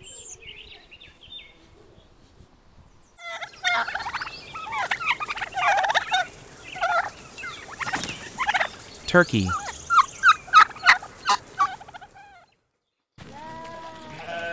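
Domestic turkeys gobbling and calling, several birds at once in dense overlapping bursts, with a quick run of sharp repeated gobbles near the end.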